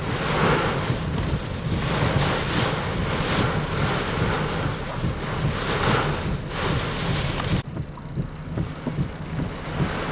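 Hurricane-force wind gusting and buffeting the microphone over a steady low vehicle rumble. About seven and a half seconds in, the hiss of the wind cuts off abruptly, leaving the rumble and lighter buffeting.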